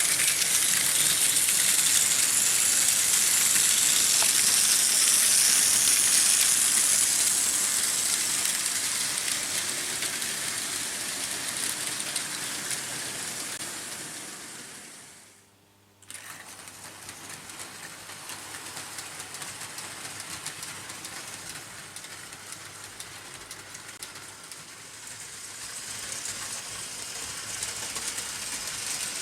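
Märklin H0 model trains running on metal M-track: a steady metallic rattle and hiss of small wheels on the rails. It is loud at first, fades to near silence about halfway through, comes back suddenly at a lower level and grows louder again near the end.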